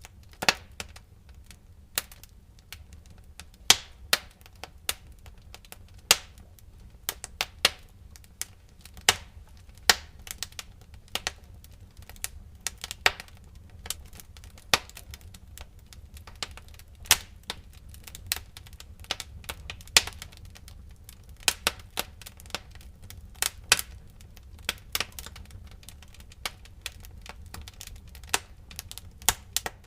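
Wood fire crackling in a fireplace: irregular sharp pops and snaps, often several a second, over a low steady rumble of the flames.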